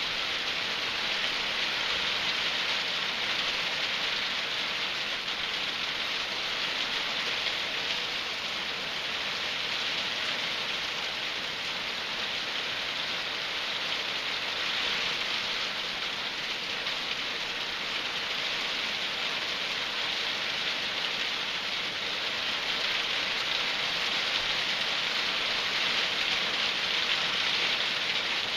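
Hailstorm with rain pelting down on surfaces: a steady, even hiss of many small impacts that neither builds nor breaks off.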